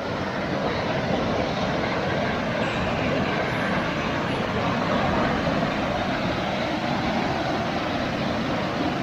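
Steady rushing of fast-flowing floodwater, a continuous wash of noise without pause or distinct tones.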